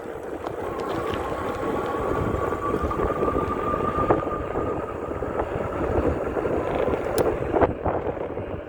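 E-bike riding on a wet road: wind rumbling on the microphone over a steady road and tyre hiss. A thin steady whine sounds from about a second in until about four and a half seconds, and a few light clicks come near the end.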